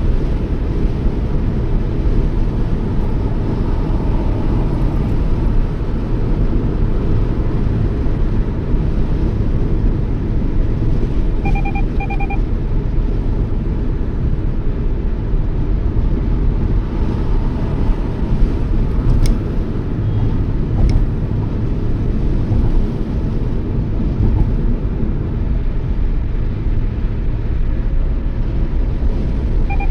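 A Toyota Yaris cruising, with a steady low rumble of road and engine noise. About twelve seconds in, a short double beep from the car's warning chime sounds.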